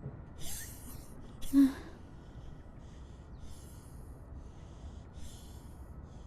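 A person breathing in a series of sharp, airy breaths or gasps. The second breath, about a second and a half in, is the loudest and carries a brief voiced catch; the later breaths are fainter.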